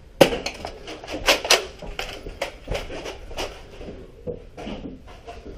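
A string of sharp knocks and clatters at irregular intervals, the loudest about a quarter second in.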